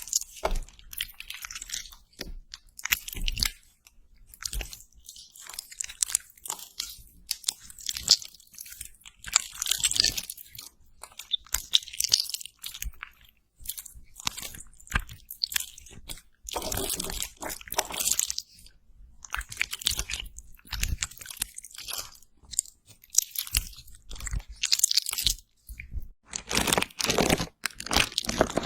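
Close-miked ASMR crunching: irregular crackly bursts, one after another, with short pauses between them.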